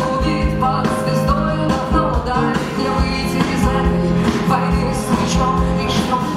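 Live rock band playing, with a singing voice over steady drum beats.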